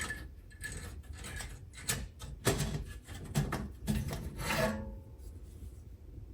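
Hands handling a small PC case and its parts: an irregular run of rubbing, scraping and light knocks.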